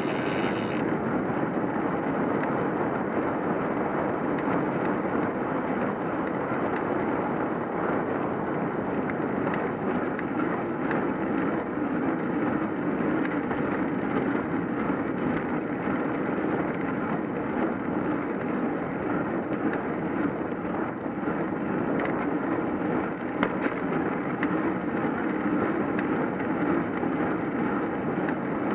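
Steady rushing road noise of a cyclocross bicycle being ridden on a rainy-day road: wind over the microphone mixed with tyre hiss.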